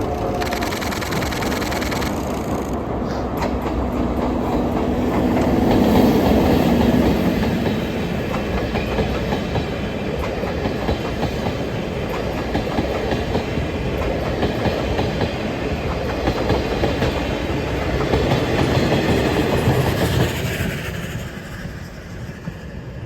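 A train of six old-type passenger coaches, with EF64 and C61 locomotives, rolling past with wheels clacking over the rail joints. It is loudest around 6 seconds in and again near 19 seconds, then fades away.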